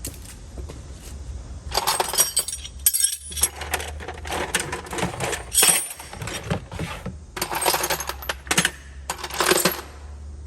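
Metal sockets clinking and clattering together as handfuls are lifted out of a tool box drawer and dropped into bins, in four bursts of rattling.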